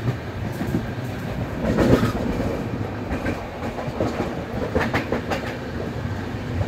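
Passenger train running at speed, heard from on board: a continuous rumble of the coach wheels on the track, with sharp clicks as the wheels pass over rail joints, and a brief swell in the rumble about two seconds in.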